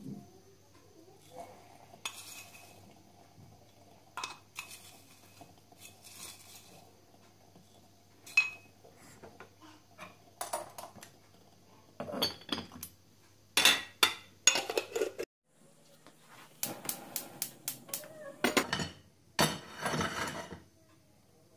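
Dishes and cutlery clinking and knocking in a kitchen, in scattered separate strokes, with a quick run of light taps about three quarters of the way through and some short scraping rustles near the end.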